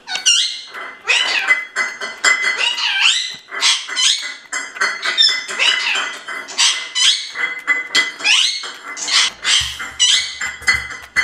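Pet parrot chirping and squeaking in a rapid run of short calls that sweep up and down, several a second, with clicks between them. A low pulsing sound comes in near the end.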